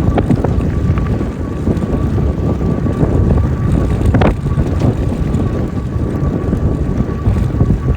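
Wind buffeting the microphone on a moving e-bike, a dense low rumble with a steady thin whine underneath and one sharp knock about four seconds in.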